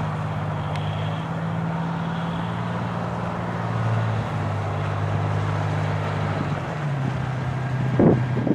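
1984 International Harvester S2500 truck's engine idling steadily, with some wind on the microphone.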